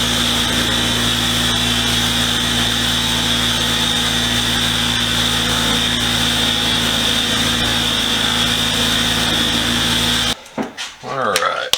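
Power-tool wire wheel running steadily as rusty steel sockets are brushed clean, a constant motor hum with a high whine over a hiss of wire scrubbing metal. It cuts off suddenly near the end.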